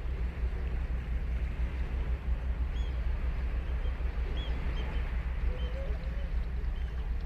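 Ocean surf washing steadily onto a sandy beach, with a deep low rumble underneath. A few faint, brief high bird chirps come in the middle.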